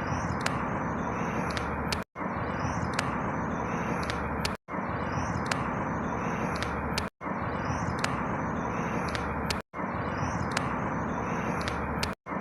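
A steady rushing outdoor background with small bird chirps above it, a recording about two and a half seconds long looped over and over, with a brief dropout of silence between each repeat.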